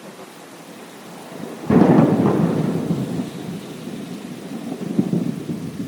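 Thunderstorm: steady rain with a sudden clap of thunder about two seconds in that rumbles on and slowly fades.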